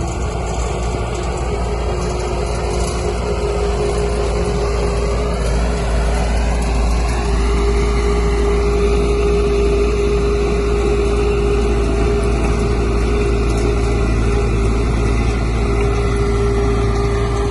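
Heavy diesel engine of earthmoving machinery running steadily, with a steady hum and a note that rises in pitch around six to eight seconds in before holding level.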